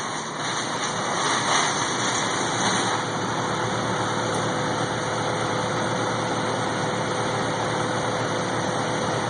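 An engine running steadily at idle: a constant drone with a steady hum through it.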